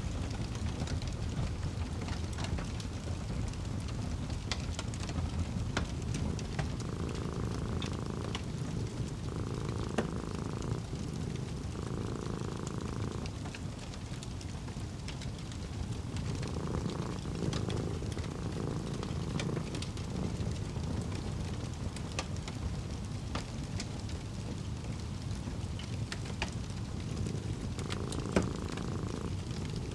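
Fireplace crackling, with sharp pops scattered over a steady low rumble. A cat purring comes and goes in stretches of a second or two, several times.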